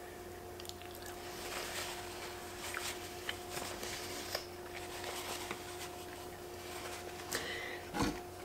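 Close-up chewing of a mouthful of creamy fettuccine alfredo, with soft wet mouth clicks and smacks over a faint steady hum. A louder thump comes about eight seconds in.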